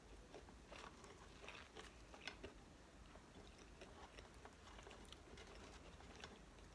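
Faint close-up chewing of fast food: scattered soft clicks and small crunches, busiest in the first two and a half seconds.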